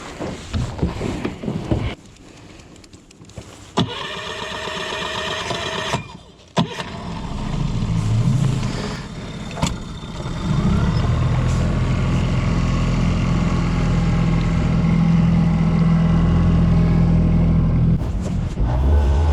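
An engine starts up about a third of the way in and settles into a steady low running drone, after some scattered knocks.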